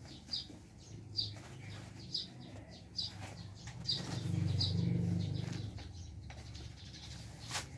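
A small bird chirping over and over, about once a second, while a hoe chops and scrapes through a heap of damp sago pulp. A low hum swells and fades about halfway through.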